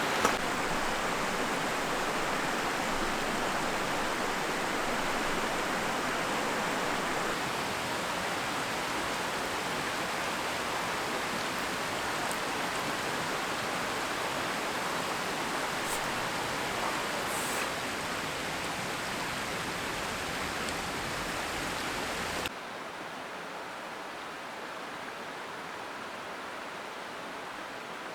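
Mountain stream rushing steadily over rocks. About three quarters of the way through the rush cuts abruptly to a quieter, softer level.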